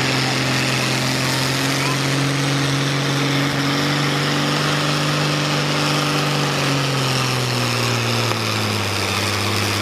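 Heavy engine of a pulling vehicle running steadily, its pitch slowly sagging over the last few seconds.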